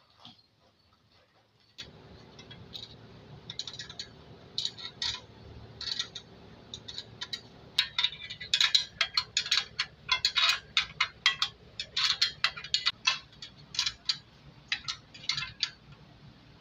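Irregular metallic clicking and scraping of hand-tool work, sparse at first and then in quick runs from about eight seconds in, over a steady low hum that starts about two seconds in.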